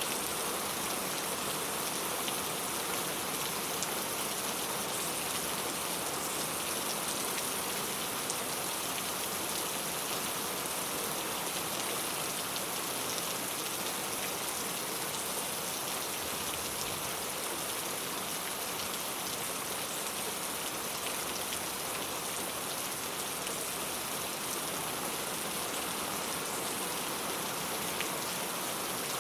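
Steady rain falling on a clay tile roof: an even, unbroken patter of drops.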